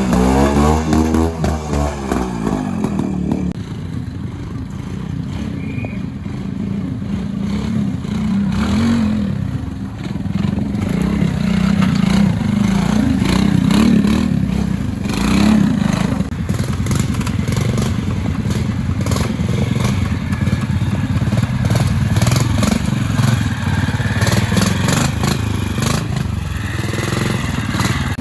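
Trials motorcycle engine being blipped and running with its pitch rising and falling as the bike picks its way through a section, with scattered clattering knocks in the second half.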